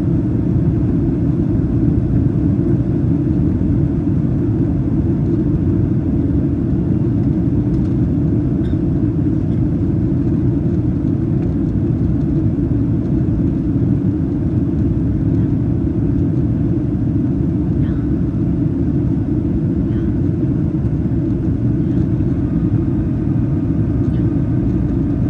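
Steady low rumble of a Boeing 737-800 in flight, engine and airflow noise heard from inside the passenger cabin, during the approach to landing.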